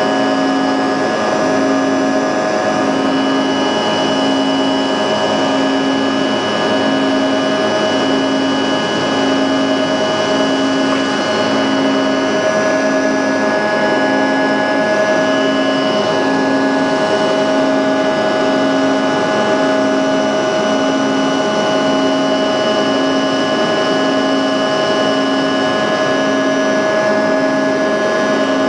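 Jet airliner engines running steadily at takeoff power: a loud even rush with several held whining tones, and a low hum that pulses a little more than once a second.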